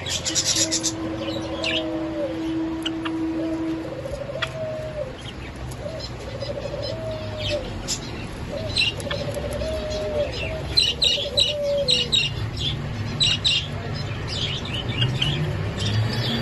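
Java sparrows calling and chirping: a low, arching warbled call repeats about once a second, and quick clusters of short high chirps come thickest in the middle of the stretch.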